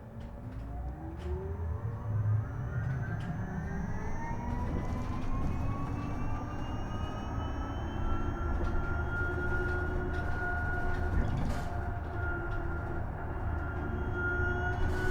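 Isuzu Erga EV electric bus pulling away: its electric drive motor's whine rises in pitch over several seconds, then levels off as the bus holds speed, with low road rumble building underneath.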